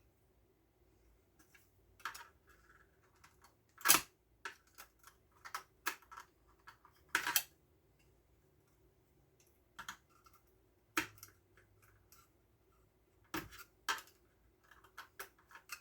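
Irregular sharp clicks and snips of hand tools working small electrical wires, about a dozen scattered through, the loudest about four seconds in and a longer crackle about seven seconds in.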